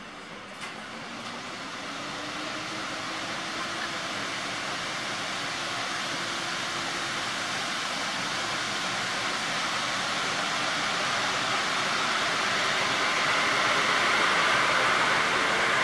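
EP09 electric locomotive and its Intercity passenger coaches rolling past close by, the rumble and rail noise growing steadily louder as the train nears. A faint whine from the locomotive climbs in pitch as it gathers speed.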